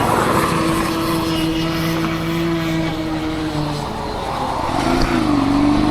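Motorcycle engine running steadily under way, heard from a helmet-mounted camera over a rush of wind noise. About four seconds in, the engine note dips briefly, then comes back at a slightly lower pitch that wavers up and down.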